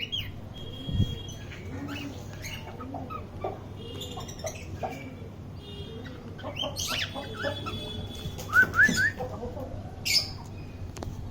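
Cockatiels chirping and calling: many short, overlapping chirps and whistles, with three quick rising calls about eight and a half seconds in, over a steady low hum.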